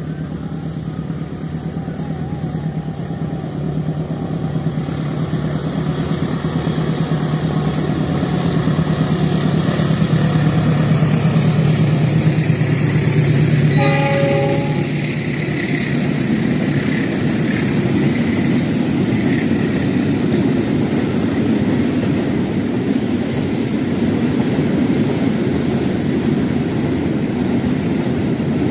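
Diesel locomotive hauling a train of fuel tank wagons, approaching with its engine hum growing louder. A short horn blast sounds about halfway through, followed by the steady rumble of the tank wagons rolling past on the rails.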